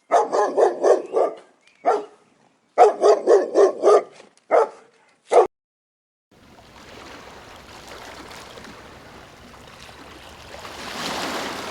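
A dog barking and yipping in quick runs of short calls, then stopping. A steady hiss follows and grows louder near the end.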